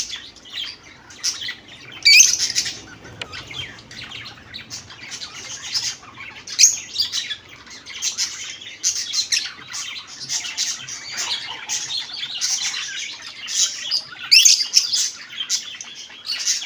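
A flock of caged pet birds chirping and twittering continuously, many at once, with louder bursts of calls about two seconds in and again near the end.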